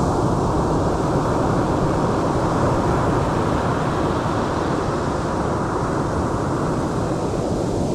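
Steady, loud low rush of wind blowing on the microphone, mixed with the wash of ocean surf.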